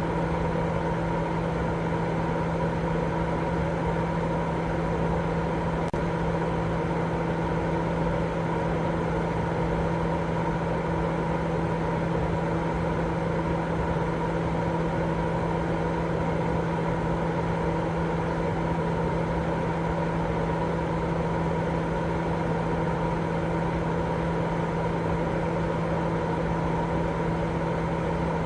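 Continuous white noise for baby sleep: an even, unchanging hiss with a low steady hum and a fainter higher tone running through it.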